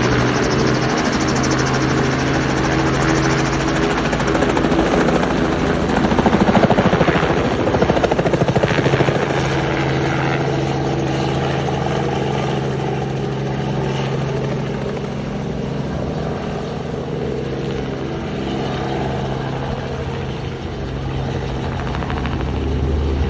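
Tour helicopter's turbine and rotor running as it departs, rotor chop growing loudest a few seconds in and then slowly fading as it moves away.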